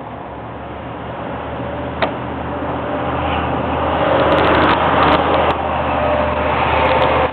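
Diesel locomotives of an approaching Florida East Coast freight train, a low engine rumble growing steadily louder, with a few sharp clicks about two seconds in and around the middle.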